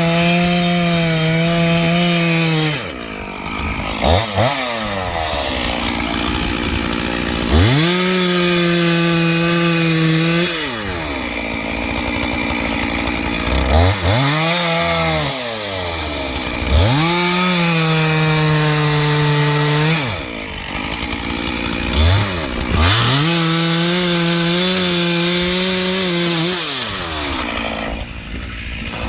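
Stihl MS 461 two-stroke chainsaw bucking an ash log into firewood rounds. It is held at full throttle for cuts lasting a few seconds, then drops back to idle between them, about five times, with a few quick throttle blips in the pauses.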